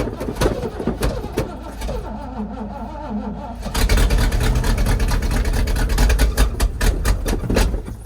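An old engine being cranked over by its starter on a cold start, with an even, repeating stroke. About four seconds in, the sound becomes louder and busier.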